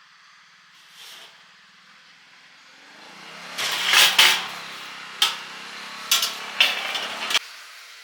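An engine running, swelling in from about three seconds in, with several sharp clanks over it, then cutting off abruptly near the end.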